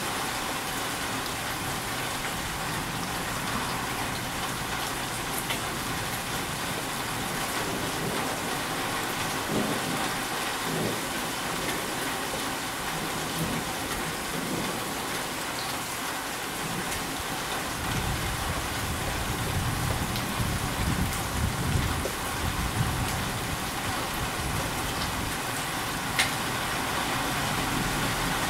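Steady monsoon rain falling, with a low rumble of thunder rolling for about five seconds past the middle.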